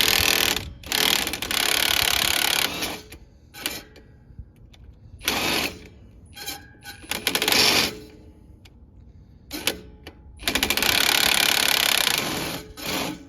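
Impact wrench running in several bursts, the last and longest about two seconds, loosening and spinning off a brake-can mounting nut.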